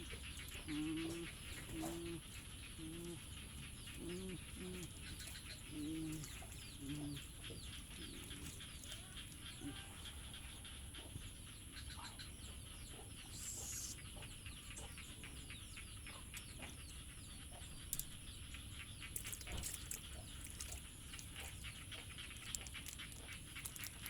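An animal giving a series of short, low calls about once a second for the first seven seconds, over a steady high whine and fast, dense ticking.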